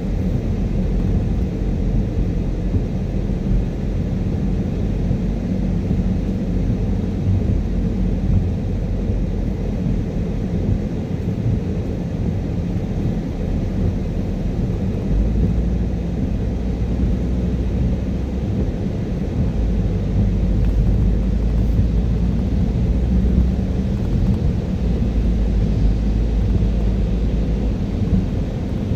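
Steady low rumble of a car driving on a wet road: tyre and engine noise, growing a little heavier about halfway through.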